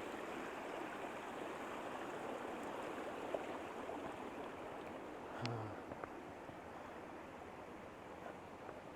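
Stream water flowing steadily, with one brief soft knock about five and a half seconds in.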